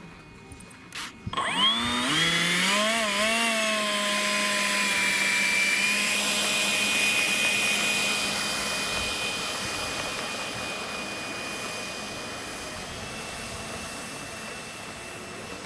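Electric motor of a radio-controlled F-104 Starfighter model jet spooling up quickly after a couple of faint clicks. It wavers in pitch, then holds a steady high whine with a rushing hiss that slowly fades.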